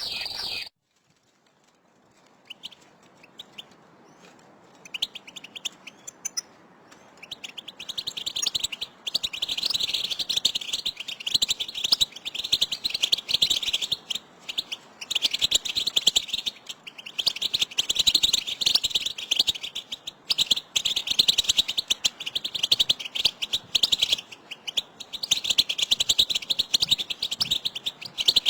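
A flock of European goldfinches calling together: rapid, high twittering chirps that start faint and build to a dense, continuous chatter after about eight seconds. A different steady high tone cuts off just under a second in.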